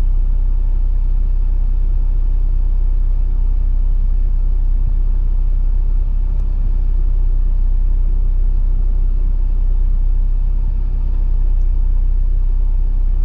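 Jeep Wrangler JL engine running at idle, a steady low rumble.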